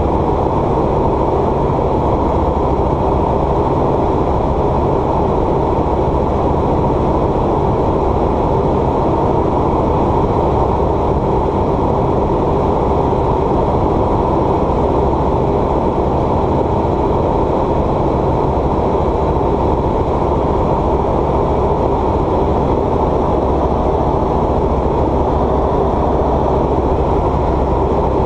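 Light aircraft's piston engine and propeller running steadily, a constant drone heard inside the cabin.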